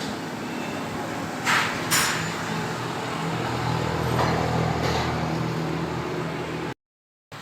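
Workshop background noise: a steady hum with a low drone that swells in the middle, broken by a few short, sharp clicks or scrapes, the first two about half a second apart. The sound cuts off abruptly near the end.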